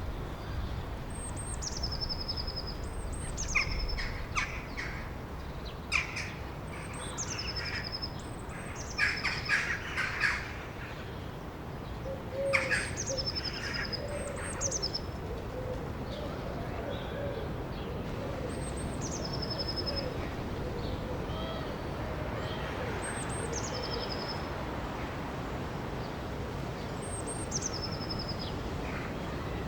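Birds singing: one bird repeats a high call, a brief note dropping into a short trill, every couple of seconds, while between about 4 and 13 seconds in other birds give short, harsher calls. Underneath runs the steady rush of flowing river water.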